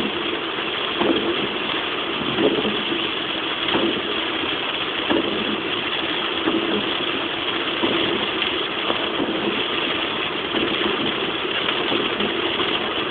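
Heavy rain and road noise heard from inside a moving car, a steady hiss, with a soft regular pulse about every 1.3 seconds like the sweep of windshield wipers.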